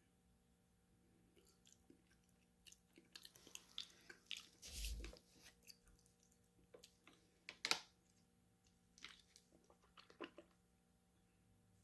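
Close-miked mouth sounds of someone eating: irregular bites, crunches and wet chewing. The loudest crunch comes about eight seconds in, and the chewing stops shortly before the end.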